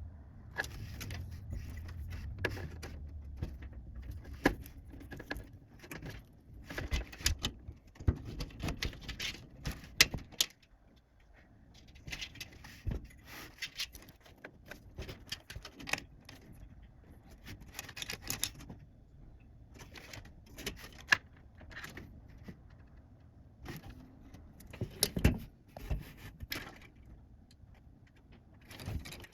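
Computer hardware being handled during PC assembly: irregular clicks, taps and small metallic rattles of parts and screws, with a low rumble in the first few seconds.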